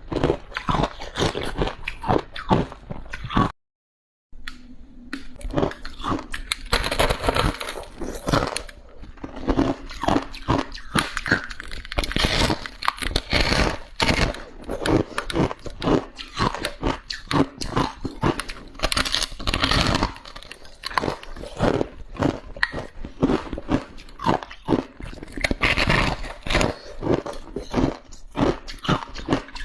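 Close-up crunching and chewing of soft, crunchy freezer frost and ice, a dense run of rapid crunches, with a brief cut to dead silence about three and a half seconds in.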